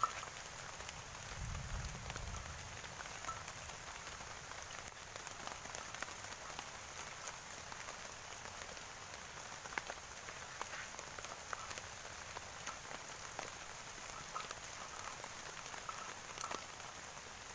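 Steady rain falling on a surface, with scattered drops ticking throughout and a brief low rumble about a second in.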